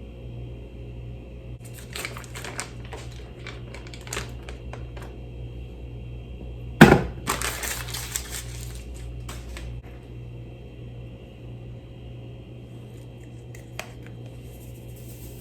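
Crinkling and cracking handling noises, with one loud sharp crack about seven seconds in followed by a couple of seconds of crackling, over a steady low electrical hum.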